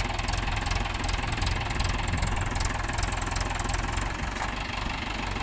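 Mahindra 415 DI tractor's four-cylinder diesel engine running steadily with a rapid, even firing beat.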